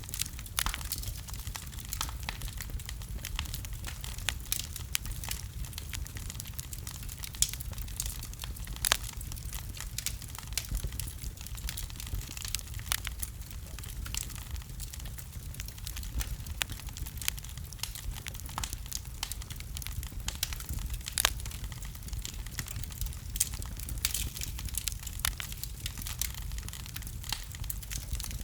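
Wood fire burning, crackling with frequent small pops and snaps over a steady low rumble of the flames.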